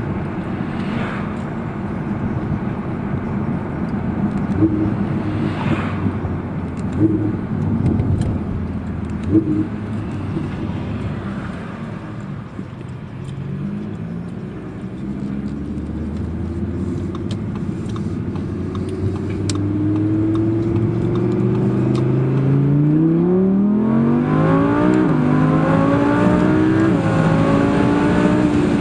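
Audi R8 V10 Plus's 5.2-litre V10 engine driving at steady speed with road noise, then accelerating hard in the second half. The pitch climbs and steps back down several times as it shifts up through the gears, getting louder toward the end.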